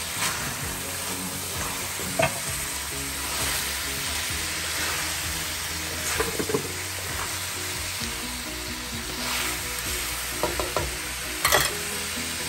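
Long beans, squash and pork sizzling in a pan as they are stirred, with the utensil knocking and scraping against the pan a few times, loudest near the end.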